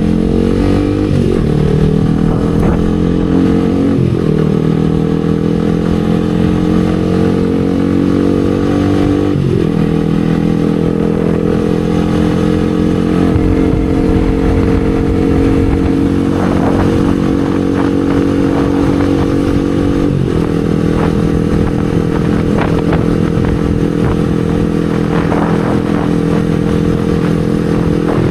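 Yamaha R15 V3's 155 cc single-cylinder engine running under way. Its note climbs slowly in pitch and drops sharply four times as the bike shifts gear.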